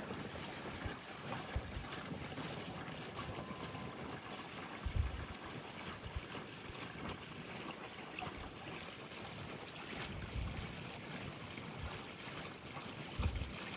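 Steady hiss of wind and water moving past a Freedom 28 sailboat under sail, with low wind buffets on the microphone about five seconds in and again near the end.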